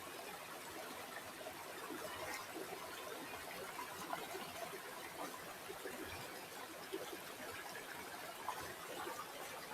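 River water flowing steadily, with a constant rush and many small trickles and gurgles.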